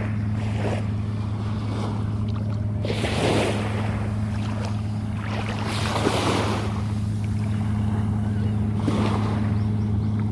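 Sea waves washing in about every three seconds over a steady low hum.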